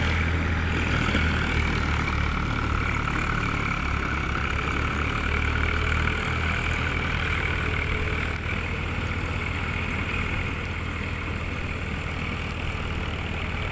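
Eicher 380 tractor's diesel engine running steadily at a low, even speed, growing slightly fainter over the seconds.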